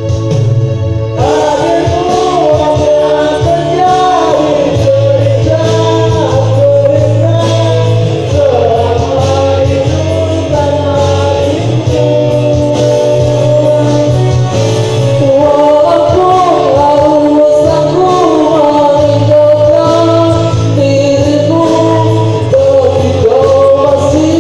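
Music: a voice singing a melody over instrumental accompaniment with sustained bass notes.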